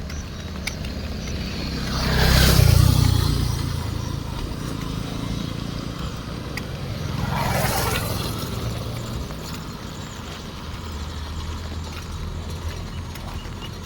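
Two motor vehicles pass on a wet road, each swelling and fading with tyre hiss and engine rumble: the first, louder, about two seconds in, the second around seven seconds in. A steady background hiss runs underneath.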